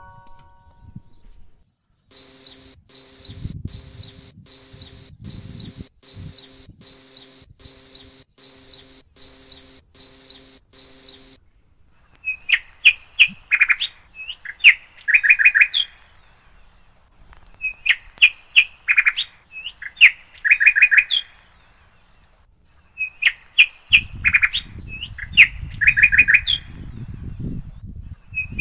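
Birds calling: first a run of about a dozen evenly spaced high calls, then a short song that repeats with the same pattern about every five seconds. A low rumble joins in near the end.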